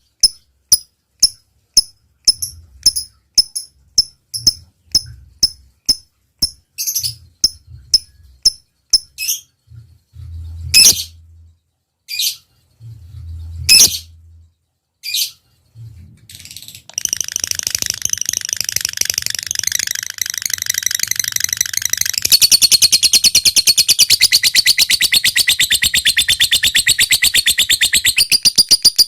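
Lovebird singing: sharp high chirps, evenly spaced about two a second, then a few louder single calls, and a little past halfway a long, rapid chattering trill (the 'ngekek') that runs on and gets louder.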